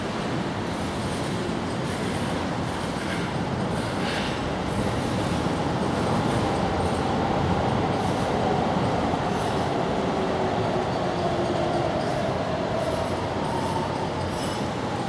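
A train passing at a distance: a steady rumble that swells in the middle, with faint whining tones that slide in pitch.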